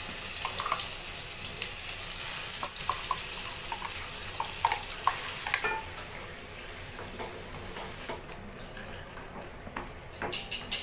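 Blended spice paste sizzling as it hits hot oil in a wok, with a spatula scraping and clicking against the pan as it is stirred. The sizzle dies down after about eight seconds, and a quick run of spatula ticks comes near the end.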